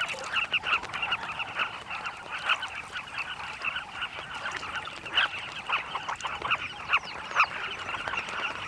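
Carmine bee-eater colony calling: many short calls overlapping in a continuous chatter.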